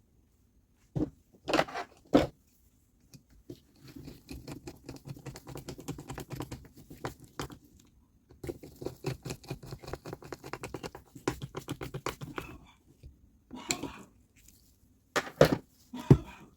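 Hand work on small tool parts: a few sharp knocks near the start and end, and between them two runs of fast, even scraping or ticking, each about four seconds long.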